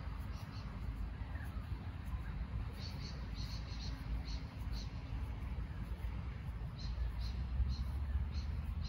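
Birds chirping in short, high notes, in clusters about three seconds in and again near the end, over a steady low rumble.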